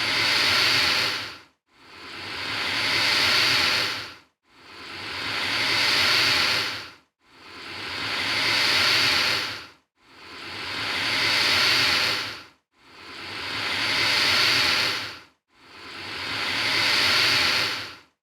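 An alligator hissing, the same hiss repeating about every three seconds: each one swells up and then cuts off sharply, with a brief silent gap before the next.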